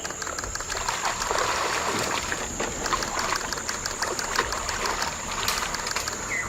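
Water sloshing and splashing as a crocodile thrashes in a jaguar's grip, over a steady high-pitched whine, with a sharp click about five and a half seconds in.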